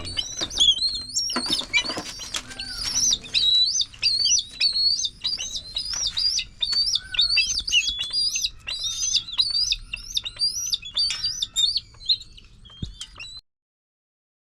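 A bird of prey calling over and over, a steady run of sharp high chirps about two or three a second. There are a few flutters or knocks in the first two seconds, and the calls stop abruptly near the end.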